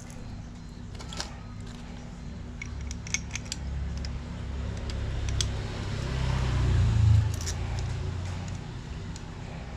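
Small metal parts and tools clinking, with a few sharp clicks scattered through, over a low rumble that swells and peaks about seven seconds in.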